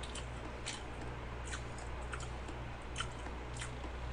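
Close-up mouth sounds of eating soft cheesecake: scattered small wet smacks and clicks of chewing, about seven in four seconds, over a steady low hum.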